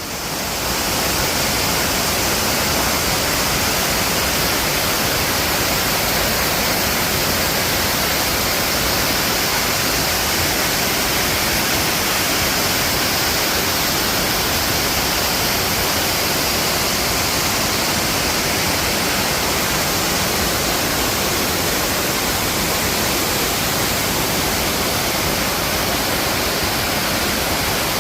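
Rushing water of a mountain valley stream, a steady, loud rush that fades up at the start and then holds even.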